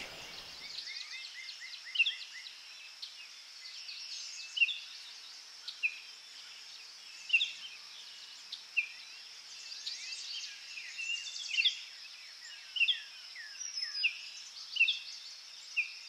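Woodland songbirds singing: many short high chirps and trills, one every second or so, over a steady faint high hiss.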